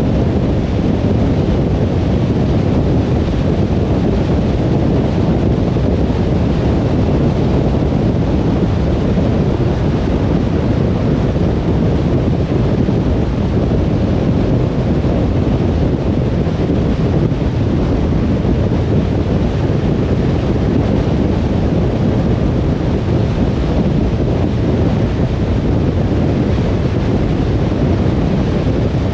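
Steady road noise from a car driving: tyre rumble and wind rush, an even low noise with no breaks or changes.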